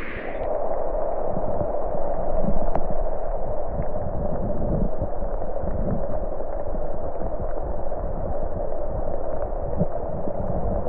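Steady, muffled rushing of water, with irregular low knocks through it.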